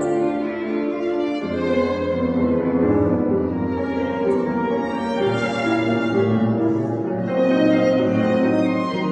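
Live classical music: a bowed string instrument plays a slow melody of long, sustained notes over lower notes that move underneath.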